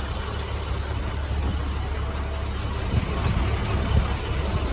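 Diesel truck engine, the International DuraStar's 7.6-litre MaxxForce, idling as a steady low rumble.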